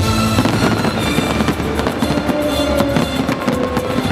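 Aerial fireworks bursting in quick succession, a dense run of sharp bangs and crackles, over loud music.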